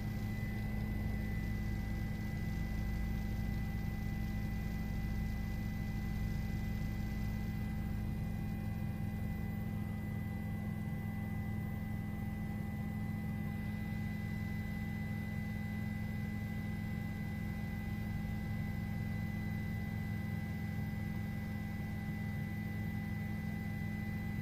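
Steady drone of helicopter cabin noise picked up through the crew's intercom or headset audio, with constant hum tones and no change in pitch or level.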